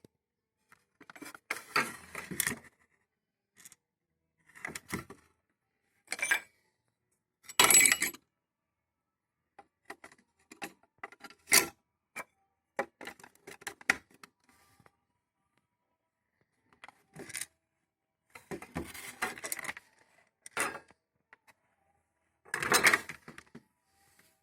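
Irregular handling clatter: a dozen or so short rattles and sharp clicks with quiet gaps between, from a small 12 V car kettle and its parts being picked up and set down.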